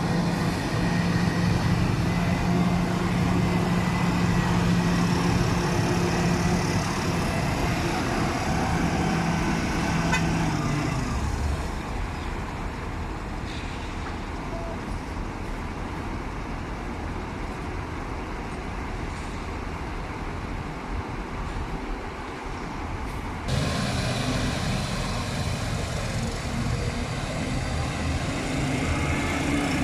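MAN TGS 33.480 truck's diesel engine running under way, a steady note that eases off about a third of the way in. It cuts back in suddenly louder about three quarters through and climbs again near the end.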